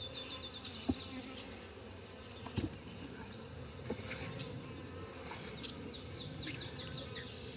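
Honeybees flying around the hives, a steady hum, with a few short knocks. A rapid series of high chirps comes at the start and again from about four seconds in.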